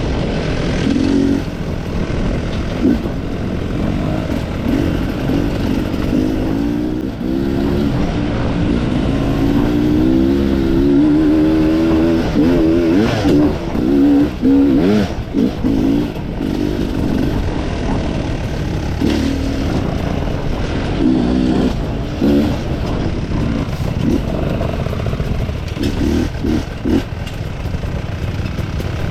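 Off-road enduro motorcycle engine revving up and down again and again under throttle, with a few sharp knocks and clatter near the middle.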